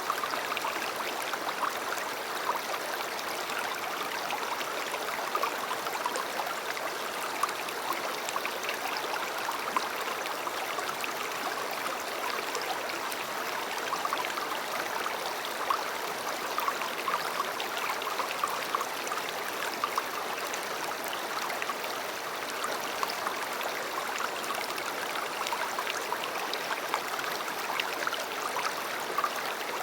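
A river flowing: a steady rush of running water, with frequent small splashes flickering over it.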